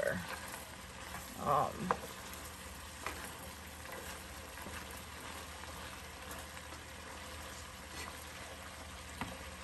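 Ground pork and vegetable lumpia filling sizzling steadily in a frying pan while a spatula stirs it, with faint scrapes and ticks. A brief voice-like sound comes about one and a half seconds in.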